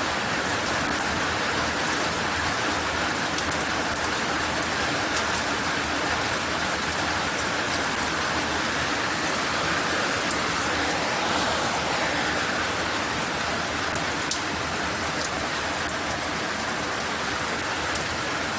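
Steady light-to-moderate rain falling, a constant even hiss of drops on surfaces with scattered drop ticks; the shower is not heavy.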